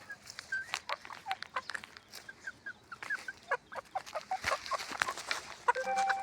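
Chickens clucking in many short, quick calls mixed with sharp clicks, with one longer call near the end.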